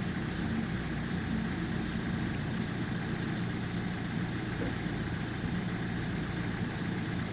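2008 Ford Focus 2.0 TDCi diesel engine idling steadily, with the heater fan, lights and heated seats switched on so the alternator is working near its full output.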